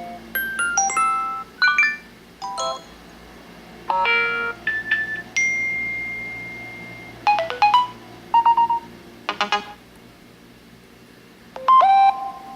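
A run of iOS 7 alert tones played one after another: short electronic chimes and beeps of a few notes each, with brief gaps between them and one longer held tone fading out about a third of the way in.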